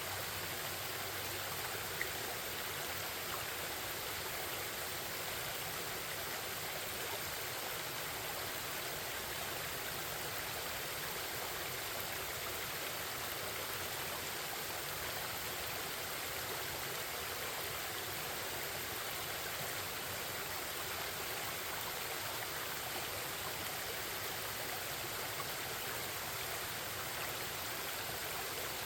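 Forest stream babbling steadily, with one faint click about two seconds in.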